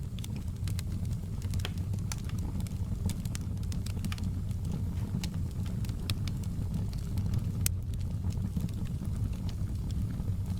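Fireplace fire burning: a steady low rumble of flames with frequent, irregular sharp crackles and pops.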